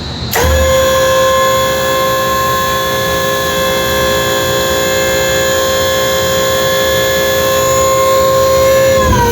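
Flood barrier warning siren sounding a loud, steady high tone as the barrier reopens after a reset. It starts abruptly and dips slightly in pitch near the end.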